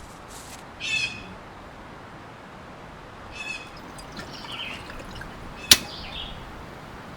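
Wild bird giving short, harsh calls, about a second in and again around three and a half seconds, with softer chirping after. A single sharp click near the end is the loudest sound.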